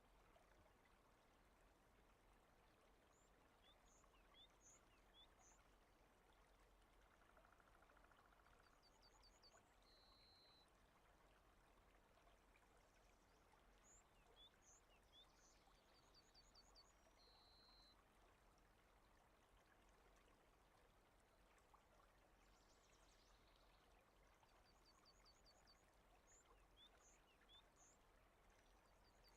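Faint rain ambience: a steady hiss of rain, with birds chirping in short high series every few seconds.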